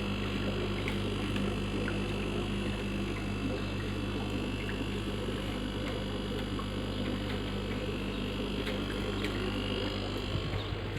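A steady low electrical hum with a few faint ticks over it; the hum breaks up near the end.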